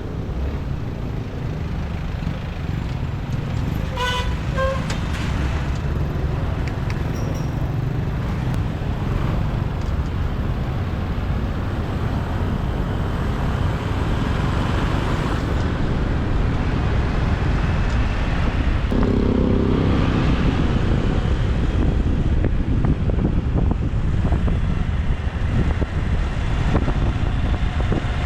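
Steady street-traffic noise from a moving motorbike: a low rumble of engine, tyres and wind. Two short horn beeps come about four seconds in, and a lower, longer horn sounds about two-thirds of the way through.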